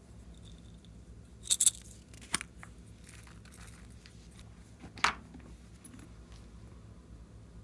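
Clear slime being worked by hand, giving a few sharp pops and crackles: a double pop about one and a half seconds in, a faint crackle a little later, and another sharp pop about five seconds in.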